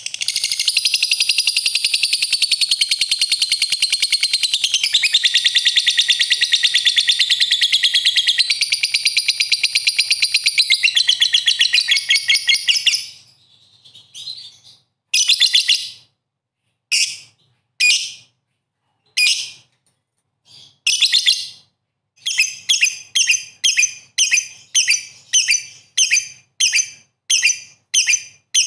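Songbird song played as a lure to provoke fighter birds into answering. A dense, rapid, high trill runs continuously for about 13 seconds, then breaks into a few separate short bursts. Near the end it settles into a regular run of bright repeated notes, about two a second.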